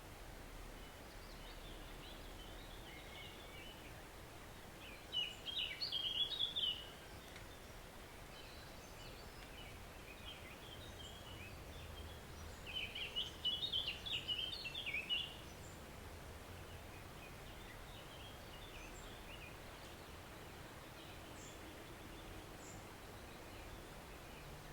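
Forest stream running with a steady soft hiss, while a songbird sings over it: faint scattered notes throughout and two louder phrases of quick jumbled notes, about five and about thirteen seconds in, each lasting two to three seconds.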